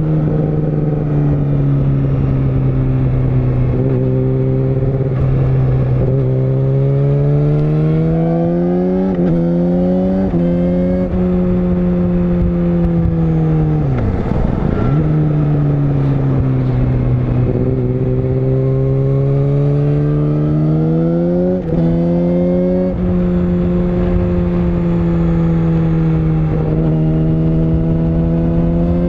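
Yamaha YZF-R6 (RJ27) 600 cc inline-four engine on the move, its revs climbing and then dropping suddenly several times, with one deep fall and recovery about halfway through.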